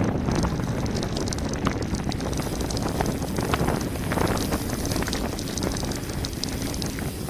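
Wind buffeting the microphone and mountain-bike tyres rumbling over a gravel road on a fast descent, with many small rattles and clicks from the bike.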